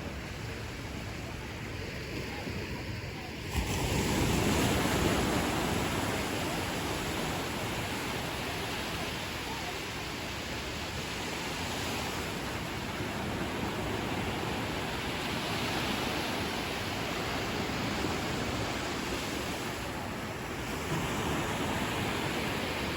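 Ocean surf washing on a beach; about three and a half seconds in a wave breaks with a sudden rise in loudness, then the surf settles into a steady wash.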